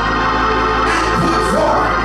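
Organ music: sustained chords held steadily, with a melody line moving over them.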